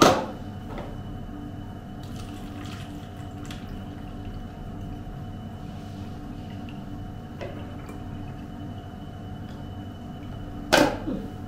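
Liquid being poured and filled into a container, likely freshly squeezed lemon juice. A sharp knock comes right at the start and two more near the end, like a container being set down.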